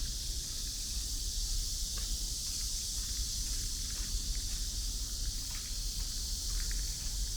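Outdoor ambience on a walk along a park path: a steady high-pitched hiss with a low rumble beneath, and faint light ticks scattered through that fit footsteps.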